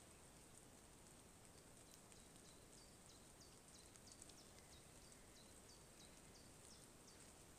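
A bird singing faintly in rain-soaked woodland: a run of short, high notes, each dropping in pitch, repeated about three times a second for several seconds, over a faint steady hiss of rain.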